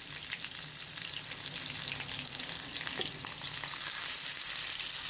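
Seasoned chicken thighs frying in hot oil in a pan: a steady sizzle with scattered crackles and pops.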